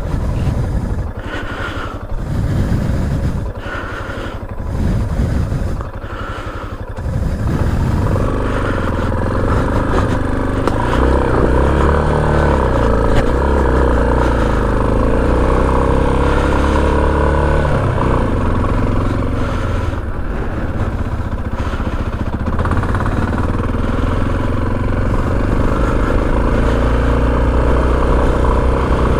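Motorcycle engine running while being ridden, uneven and lighter for the first several seconds. About seven seconds in it pulls harder, with the revs rising and falling again and again.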